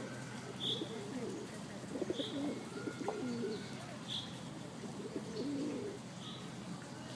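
Feral pigeons cooing. Over the cooing, a small bird gives a short high chirp about every second and a half.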